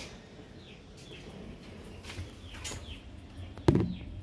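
Small birds chirping: repeated short, faint, falling chirps. A single sharp knock sounds near the end.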